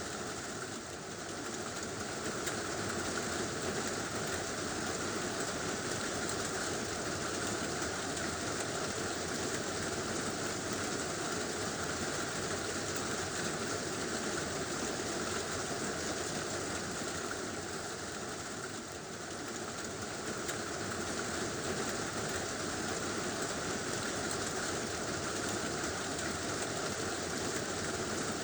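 Heavy rain drumming on a tin roof, a steady, even hiss that dips slightly for a moment about a second in and again near the end of the second third.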